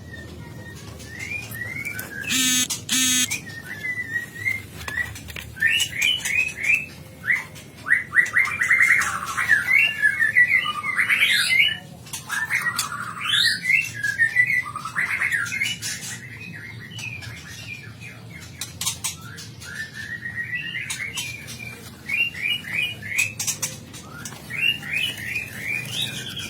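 Songbirds chirping and whistling in rapid, varied phrases, with a brief harsh rattling call about two and a half seconds in.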